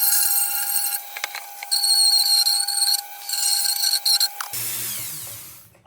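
A small high-speed rotary tool whining as it grinds sheet metal in three short passes, taking the sharp corners off the lantern's bottom. About four and a half seconds in it is switched off and spins down, its pitch falling away.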